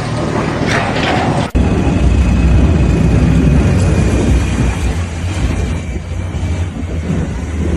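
A motor running with a steady low rumble that starts abruptly about a second and a half in, after a shorter burst of mixed noise.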